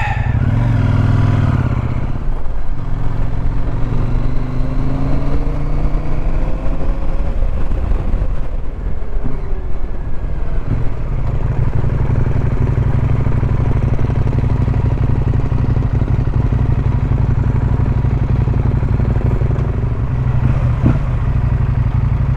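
Adventure motorcycle engine running while riding, its pitch rising and falling over the first several seconds, then holding steady.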